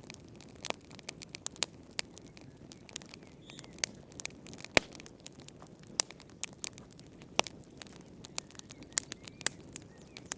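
Wood fire in a fireplace crackling, with irregular sharp pops over a low steady hiss; the loudest pop comes a little before the middle.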